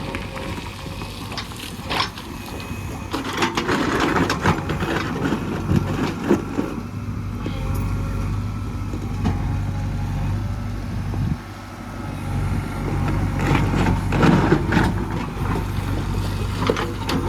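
Diesel engine of earth-moving machinery running steadily, with bursts of knocks and scraping from about three to six seconds in and again around thirteen to fifteen seconds.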